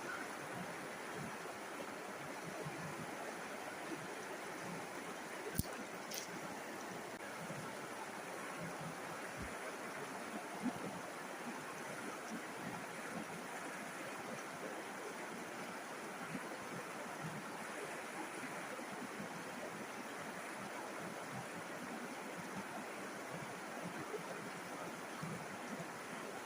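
River water flowing steadily, an even rushing noise without a break. There are two brief sharp clicks about six seconds in.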